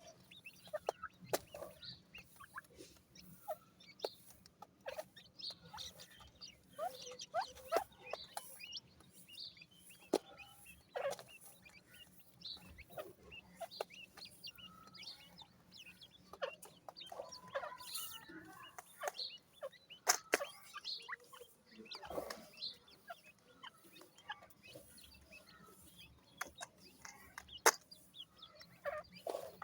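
Two-day-old francolin (teetar) chicks peeping, a scattered run of short calls throughout, mixed with light ticks and a sharp tap near the end.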